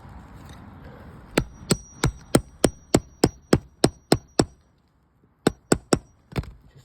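Hammer tapping a cat's claw nail puller, metal on metal, to work it under a roofing nail and pop the nail up. About a dozen light strikes come at roughly three a second, then a short pause, then four more.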